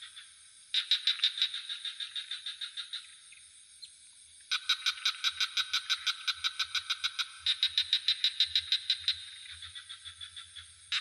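Frogs calling in fast rattling trills of about seven pulses a second, in bouts of two to three seconds with short gaps, over a steady high-pitched cricket hum.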